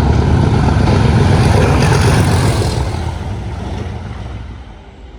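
Diesel train passing through the station at speed. Its heavy rumble and rushing noise are loudest about two seconds in, then fade as it moves away.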